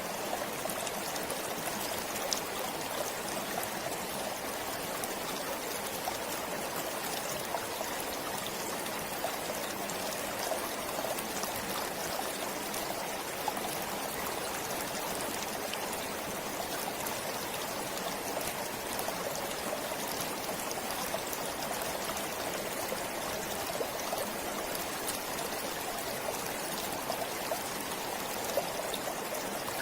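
Forest stream flowing steadily, an even rushing of water with small splashes and drips scattered through it.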